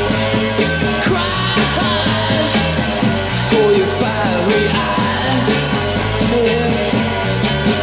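1960s garage rock recording playing an instrumental passage: a steady driving beat, a repeating bass line and wavering melodic lead lines over them.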